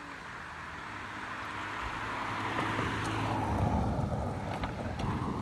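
A vehicle passing by: a rushing sound with a low hum that swells to its loudest about three and a half seconds in, then fades, with a few sharp ticks near the end.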